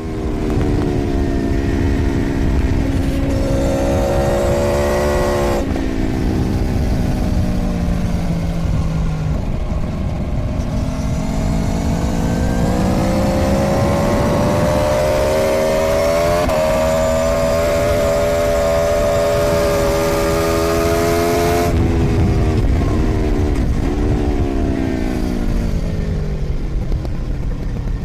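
Onboard sound of a 2013 Aprilia Tuono V4's V4 engine under hard track riding: the engine pitch climbs and steps through several gear changes over a steady rush of wind. Near the end the throttle closes and the engine drops in pitch with a couple of quick blips on the downshifts.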